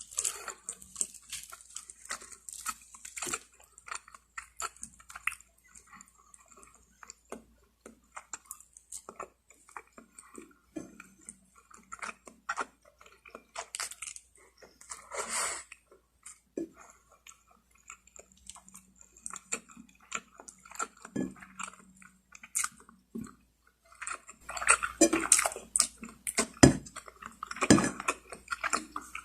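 Close-miked eating sounds of a person chewing and biting roast chicken: irregular wet smacks and mouth clicks, turning denser and louder in the last few seconds.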